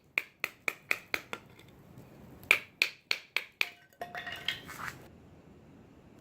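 A rapid run of sharp snaps, about four a second, then a second run after a short pause, followed by about a second of denser crackling.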